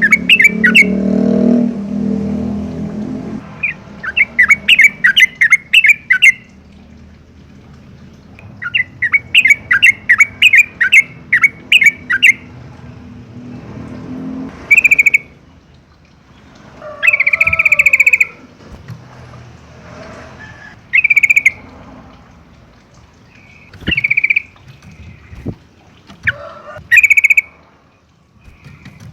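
Yellow-vented bulbul singing: three runs of rapid, chattering notes lasting a few seconds each, then short single calls every few seconds.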